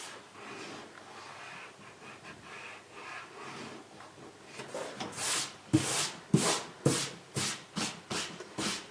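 Rubber eraser rubbing over watercolour paper to clear pencil marks from under an ink outline. It starts as a soft, quiet scrubbing, then from about five seconds in turns to a run of louder, quicker strokes, about two a second.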